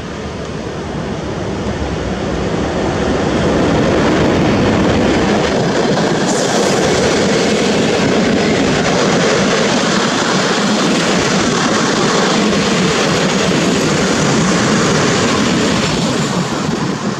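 Passenger train hauled by an EP05 electric locomotive passing close by: the steady rumble and rattle of wheels on the rails, growing louder over the first few seconds as it draws near, then holding loud as the coaches run past.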